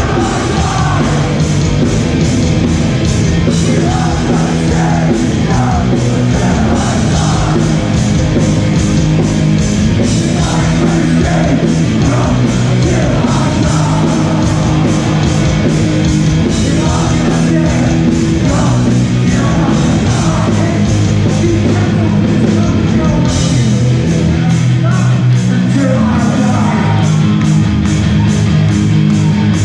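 Live hardcore punk band playing loud and fast: distorted guitars, bass and a driving drumbeat, with shouted vocals over the top.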